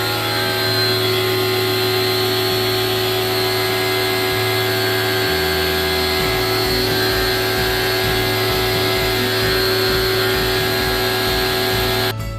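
A powered cleaning machine runs steadily with a strong hiss and a steady whine, starting and stopping abruptly.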